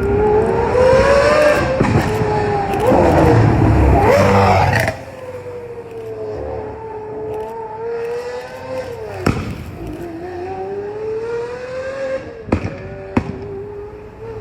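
Lamborghini Huracán STO's naturally aspirated 5.2-litre V10 engine, loud and revving with rising and falling pitch for about five seconds, then dropping suddenly to a quieter, steadier run. A few sharp cracks sound in the second half.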